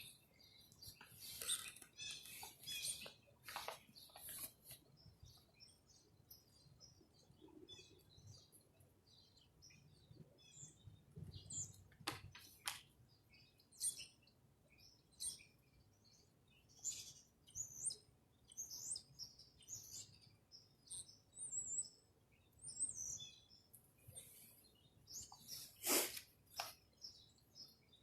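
Faint birdsong: many short, high chirps and calls scattered throughout, with a couple of sharp clicks, one about halfway through and a louder one near the end.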